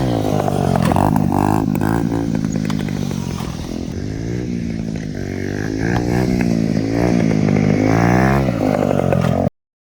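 Gas pit bike's small single-cylinder engine revving up and down repeatedly, with its pitch rising and falling. It is quieter in the middle, louder again after that, and cuts off abruptly near the end.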